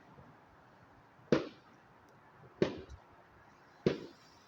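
Fireworks going off: three sharp bangs at an even spacing of about one every 1.3 seconds, each with a short fading tail.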